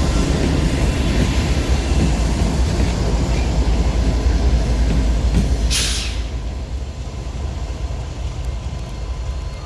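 Freight train rolling by with a steady low rumble. About six seconds in there is a short hiss, and after it the rumble slowly fades.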